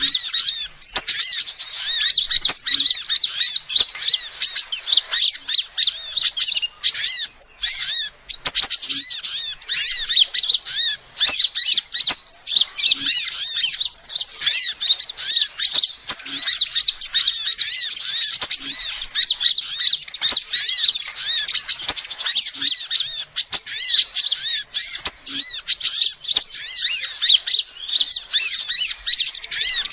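Female sunbird calling in a continuous run of rapid, high chirps and twitters. It is a bird-trapping lure call.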